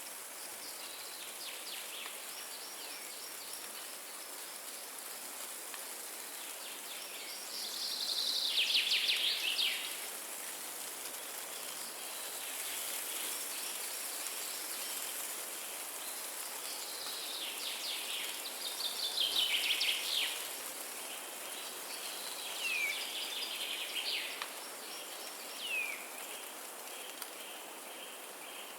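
Woodland birds singing over a steady hiss of wind in the trees: two loud songs of rapid trilled notes that fall in pitch, about a third of the way in and again past the middle, then several short down-sweeping calls near the end.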